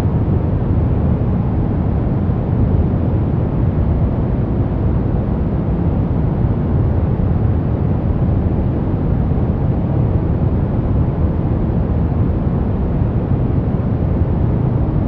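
Steady, unchanging noise played as a white-noise sleep aid. It is heavy in the bass and dull, with little treble, so it sounds closer to a deep, muffled hiss than a bright one.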